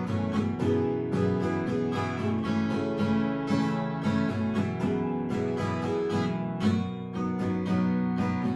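Acoustic guitar strummed in a steady rhythm, chords ringing without singing.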